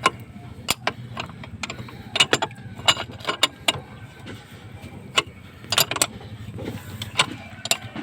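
Hand tools clicking and knocking irregularly on fittings during a leak repair, over a low steady hum.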